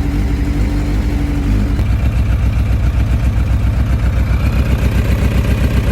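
Carbureted Suzuki GSX750F inline-four idling on a cold start. About two seconds in, the engine speed drops and settles into a lower, even, pulsing idle.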